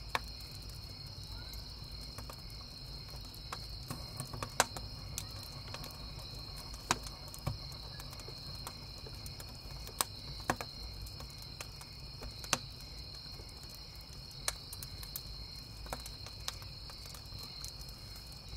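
Wood campfire crackling, with sharp pops at irregular moments, the loudest about four and a half seconds in. Underneath are a steady chorus of chirping crickets and a low rumble.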